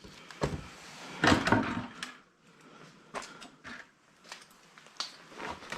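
Scrap metal parts being handled and sorted, giving a run of separate knocks and short clatters. The loudest is a rattling clatter about a second and a half in.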